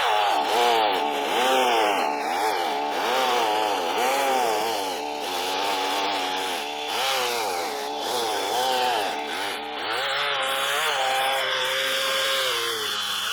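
Chainsaw cutting into a wooden log to shape an anvil stump, its engine pitch rising and falling repeatedly as it loads up and frees in the cut, then running steadier for the last few seconds.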